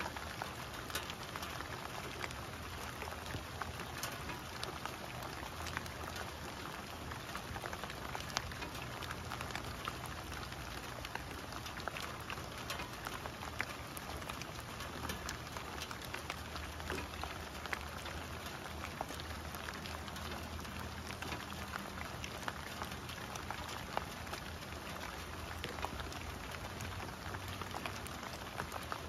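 Steady rain falling on fallen leaves and grass: a continuous hiss dotted with many sharp ticks of single drops striking close by.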